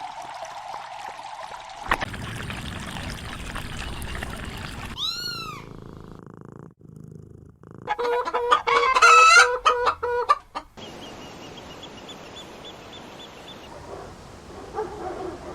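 Chicken squawking loudly in a quick series of calls for about two and a half seconds, the middle of a run of short animal clips with steady background noise between them.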